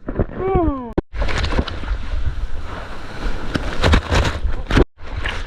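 Ocean surf rushing and splashing close to a waterproof action camera, with wind buffeting the microphone in a heavy low rumble. A short falling hoot comes in the first second, before an abrupt cut.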